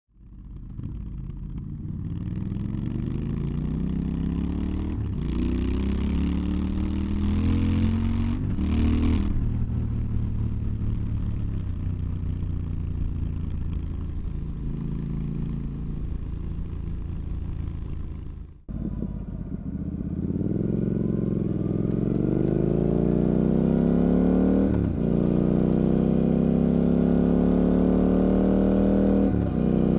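Triumph Scrambler 1200's parallel-twin engine running and being revved through its exhaust, its pitch rising and falling with each blip of the throttle. About two-thirds of the way through the sound drops out briefly, and after that the revving is louder.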